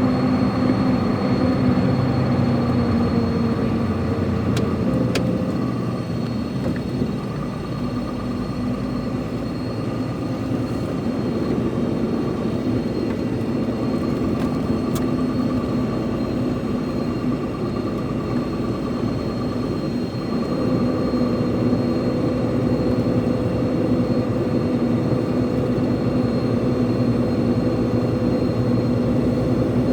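Truck engine running steadily with a droning, pitched note; the note eases slightly about six seconds in and picks up again about twenty seconds in, creeping higher toward the end. A few faint clicks are heard.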